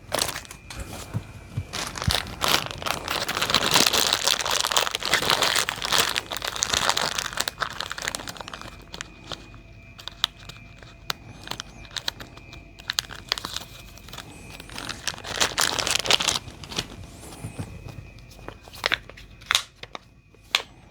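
Thin plastic crinkling and crackling with scattered sharp clicks: the heat-shrink wrap of a lithium-ion 18650 cell being handled and peeled off, densest in the first half and again near the end.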